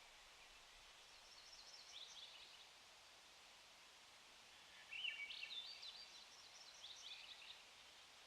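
A songbird calling in quick, high, chirpy phrases: a soft phrase about a second in, then a louder, busier run about five seconds in, over a faint steady hiss.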